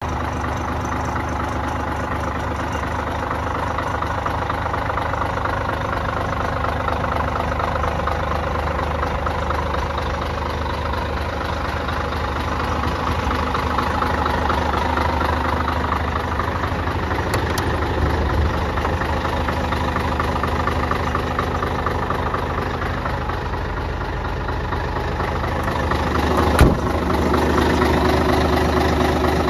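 Scania 113 360 truck's 11-litre straight-six diesel engine idling steadily. A single sharp knock sounds near the end, the loudest moment.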